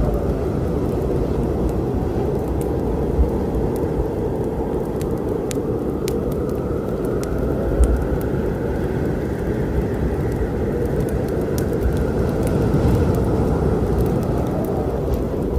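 Steady low storm rumble with sparse sharp crackles from a burning wood fire over it.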